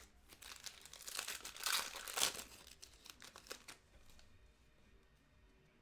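Crinkly wrapper of a pack of trading cards being torn open and crumpled, a run of crackles loudest about two seconds in that dies away after about four seconds.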